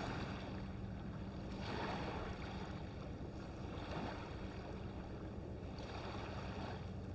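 Sea washing on the shore with wind across the microphone: a steady rushing that swells gently now and then over a constant low rumble.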